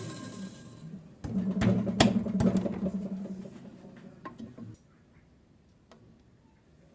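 Small electric drill winding down to a stop, followed by a few sharp knocks of metal work with a low hum that fades away.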